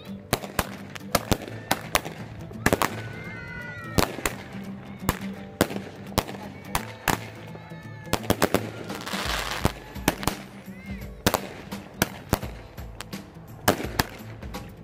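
Consumer fireworks firing from ground tubes: a rapid, irregular string of sharp pops and cracks as shots launch and burst. A few short whistles come about three seconds in, and a rushing hiss rises around nine seconds.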